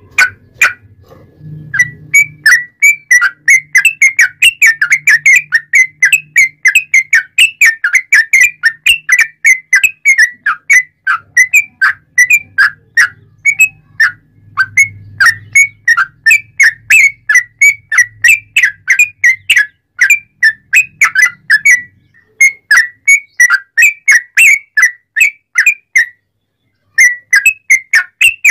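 Yellow-vented bulbul (trucuk) singing a loud, fast run of short whistled notes, about three to four a second, broken by brief pauses twice near the end.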